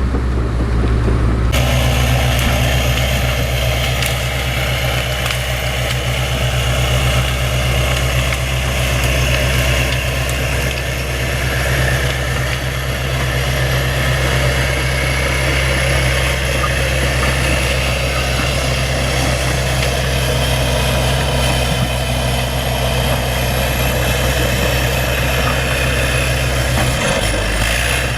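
Bulldozer's diesel engine running steadily, with a deep, even drone.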